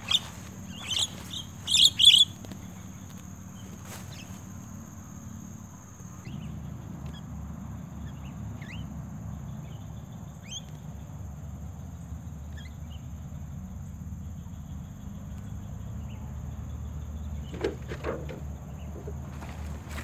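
Birds calling: a few loud, sharp chirps in the first two seconds, then faint scattered chirps. A steady high insect whine, like a cricket, stops about six seconds in, and there is a brief soft knock near the end.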